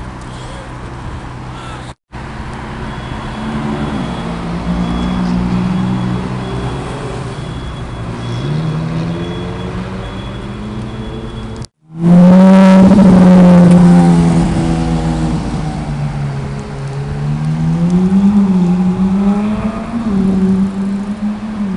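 Supercar engine revving and accelerating in street traffic, its pitch climbing and falling in several sweeps. It is loudest for about two seconds in the middle as it pulls away close by, and is broken by two abrupt edit cuts.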